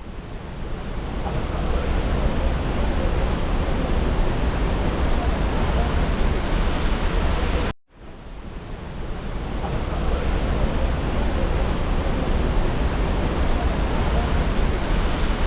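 Rhine Falls waterfall: a steady rush of falling water, with wind rumbling on the microphone. The sound cuts out abruptly about eight seconds in and swells back up within a second or two.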